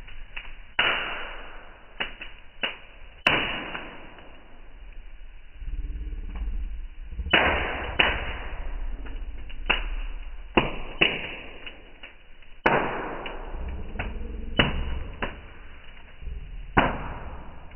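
Wood fire in a fireplace crackling, with irregular sharp pops and snaps from the burning logs, some of them loud, over a low rumble that comes and goes.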